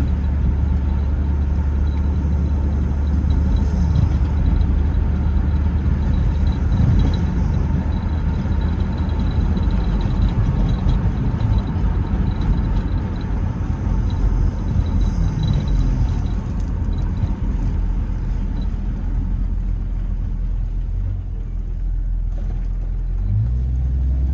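1997 Jeep Grand Cherokee's 4.0 inline-six running under way with road noise, a steady low rumble.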